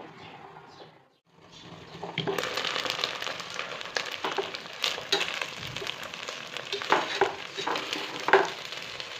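Food frying in a pan: a steady sizzle that sets in about two seconds in, after a brief gap, with scattered sharp clicks over it.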